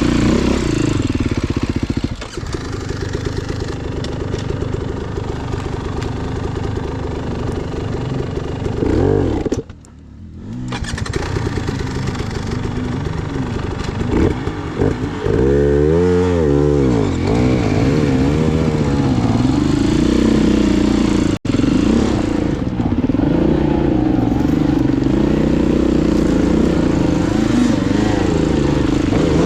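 Off-road dirt bike engine running under throttle, its pitch rising and falling as the rider revs it on rough ground. The sound dips briefly about ten seconds in, then a quick run of revving follows.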